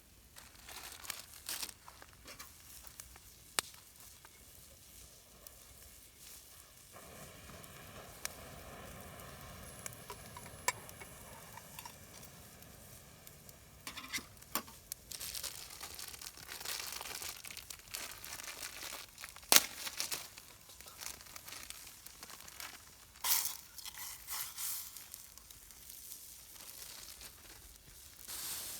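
Irregular rustling and crinkling handling noises with scattered sharp clicks and knocks; a single sharp knock about two-thirds of the way in is the loudest.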